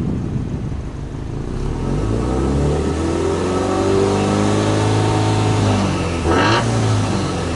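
Subaru Impreza R205's turbocharged 2.0-litre flat-four (boxer) engine being free-revved at a standstill, heard at the exhaust. The revs climb slowly, hold and fall back, then a short sharp blip of the throttle comes about six seconds in before the engine drops back down.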